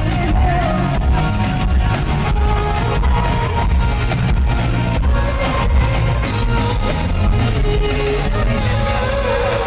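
Loud live band music through an arena sound system: electric guitar over heavy bass and drums.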